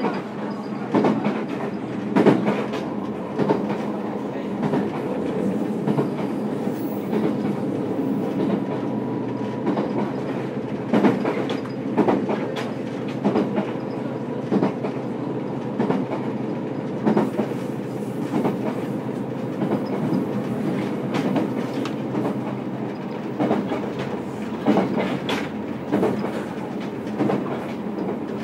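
Running sound inside a JR Kyushu YC1 series hybrid railcar, recorded above the traction motor: a steady rumble of wheels on rail with clicks from rail joints at irregular intervals. A faint steady tone fades out about ten seconds in.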